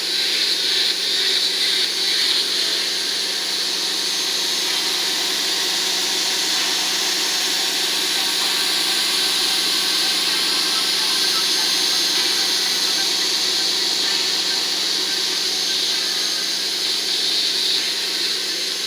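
Small electric motor of a homemade cardboard table fan running steadily: an even whir with a hum and airy hiss.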